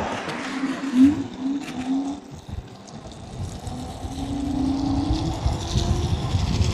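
Riding an electric scooter through slushy streets: a steady low rumble of wind and road noise that grows stronger partway through, with a low hum that wavers early on and rises slowly later.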